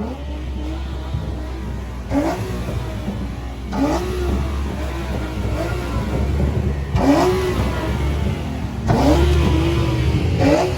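Car engine revved in short blips about five times, each rising and falling in pitch, over the steady low rumble of idling engines.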